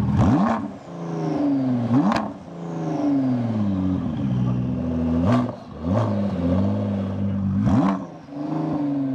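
Car engine through a loud aftermarket exhaust, revved in about six sharp blips. Each rev shoots up quickly and sinks slowly back, with a sharp crack at the top of several of them.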